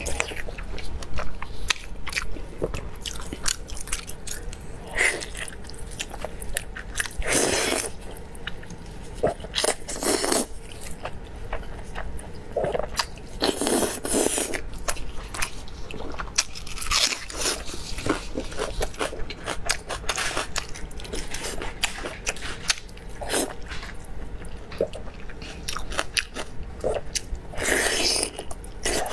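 Close-miked chewing and biting of saucy braised beef rib meat: a steady run of small wet mouth clicks and smacks, with a few louder, longer wet sounds every several seconds.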